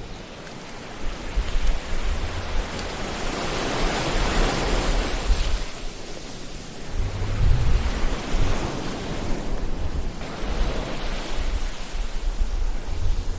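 Ocean surf: waves wash in and draw back in slow surges, one swelling a few seconds in and another about halfway through, over a low rumble.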